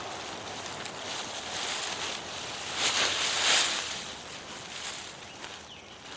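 Rustling and scraping of soil and potato foliage being handled while potatoes are dug up, with a louder stretch about three seconds in.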